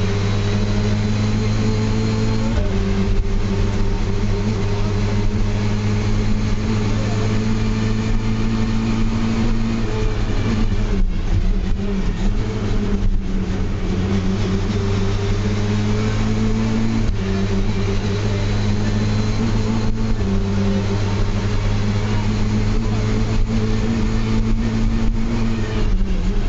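Lada VFTS rally car's engine heard from inside the cabin, driven hard at high revs, its pitch stepping down and back up several times through gear changes. The revs ease off about ten seconds in, as for braking into a chicane, and build again around seventeen seconds in.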